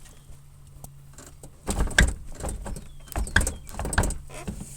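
Pickup truck door being worked back and forth on worn hinges, giving several sharp clunks and knocks: the sag and play of door hinge bushings that need replacing.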